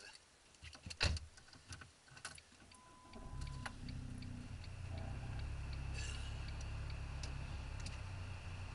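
Scattered clicks and ticks, one loud click about a second in and a short beep, then about three seconds in a car's engine comes up and runs steadily, heard from inside the cabin as the car moves off.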